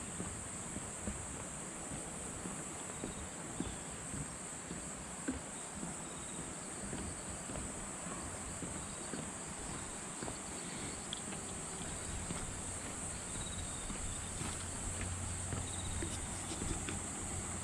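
Insects chirring in a steady, high-pitched drone, with a few faint clicks; a low hum joins in about two-thirds of the way through.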